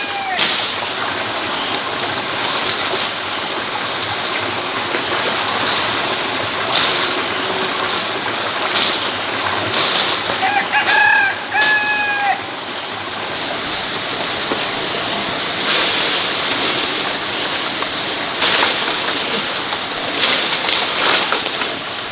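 A rooster crows once, about halfway through, in two drawn-out parts. Underneath runs a steady wash of noise with scattered sharp taps.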